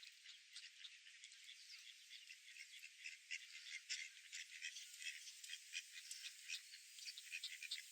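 Faint, dense chorus of short high-pitched chirps from small animals, growing busier about three seconds in, with no low sound at all.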